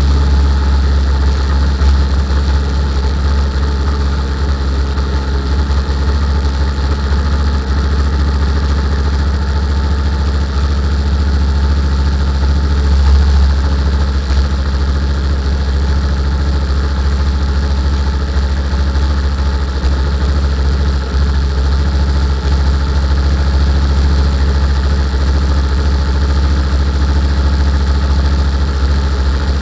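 Car engine idling steadily and loudly, its sound mostly deep and low, with no revving.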